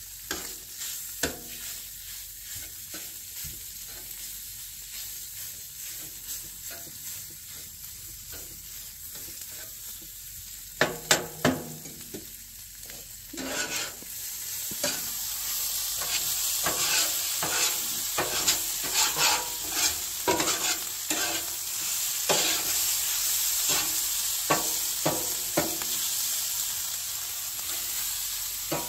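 Food sizzling on a hot griddle while a cooking utensil scrapes and clicks against it as it is stirred. There are a few loud knocks about eleven seconds in, and the sizzle gets louder from about halfway through.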